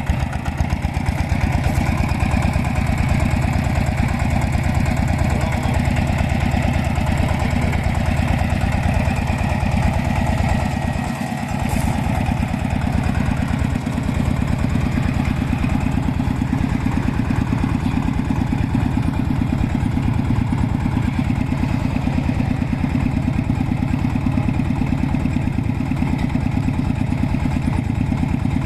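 A vintage engine running steadily at a rapid, even firing beat. Its level dips briefly about eleven seconds in.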